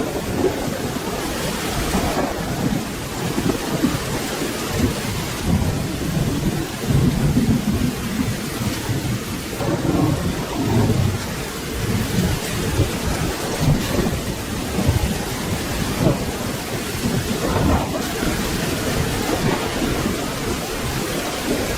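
Steady rain with low, rolling thunder rumbling and swelling in waves underneath it.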